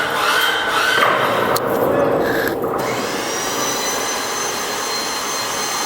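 Electric hoist motor running under load as the H-beam is lowered: a steady mechanical hiss. A steady high whine joins it about three seconds in.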